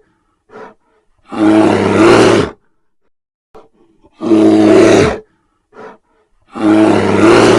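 Bear roaring: three loud, rough roars of about a second each, spaced about two and a half seconds apart, with faint short grunts or breaths between them.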